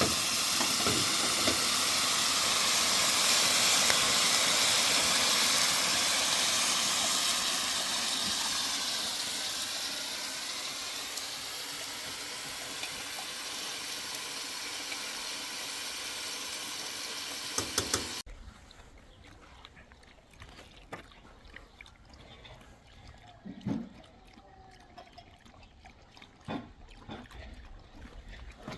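A hot cooking pan hissing and sizzling steadily, slowly getting quieter, then cutting off abruptly about eighteen seconds in. After that comes a low background with a few faint knocks.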